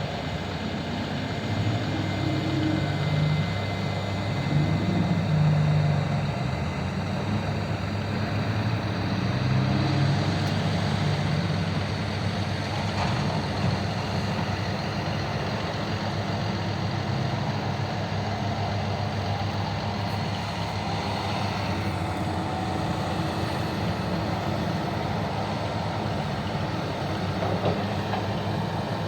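Large diesel engines of heavy mining machinery, an excavator and haul truck, running. The engine note rises and falls through the first ten seconds, then runs steadily.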